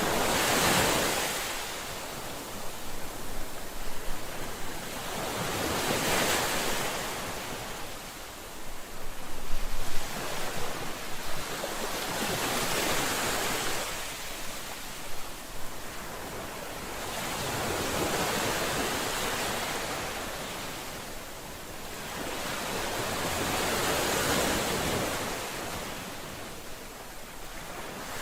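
Ocean waves breaking and washing on a shore in a slow rolling cycle, a swell building and receding about every six seconds, with sharper crashing bursts from some breakers.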